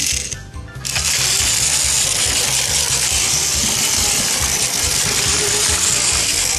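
Battery-powered Plarail toy train (Yufuin no Mori, new-type motor unit) running at high speed, its small motor and plastic gears whirring with a steady clattering rattle that starts about a second in: the speed switch, bent back into shape, now stays in Hi.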